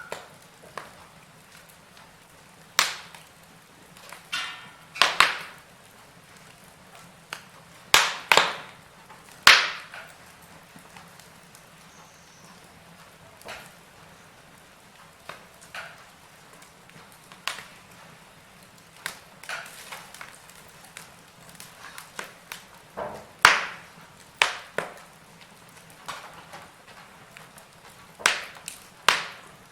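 Wood fire crackling in a fireplace: irregular sharp cracks and pops, a handful of them loud, over a faint steady hiss.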